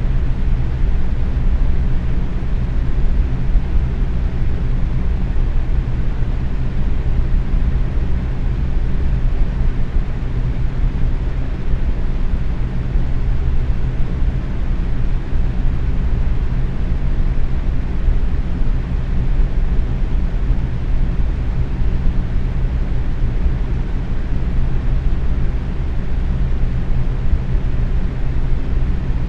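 Box fan running steadily at medium speed: an even rush of air with a low hum from the motor and blades, no change in level.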